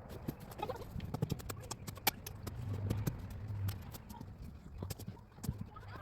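Trench digging in stony soil: irregular sharp clacks and scrapes over a low, uneven rumble.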